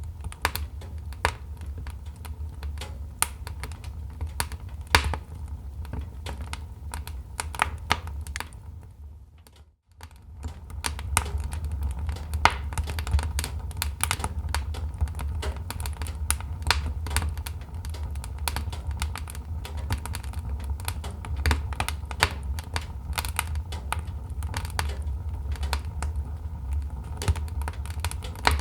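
Wood fire crackling in a fireplace: irregular sharp pops and snaps over a low rumble. The sound dips almost to silence for a moment about ten seconds in, then comes back.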